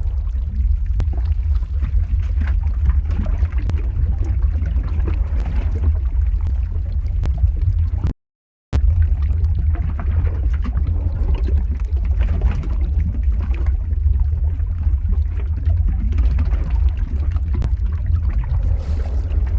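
Lava flow ambience sound effect: a steady deep rumble with a hiss of scattered faint clicks over it. It drops out to silence for about half a second about eight seconds in, then carries on unchanged.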